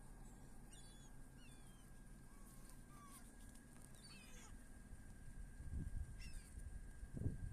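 Seagulls calling faintly: several short, high calls spaced a second or two apart. A low rumble builds near the end.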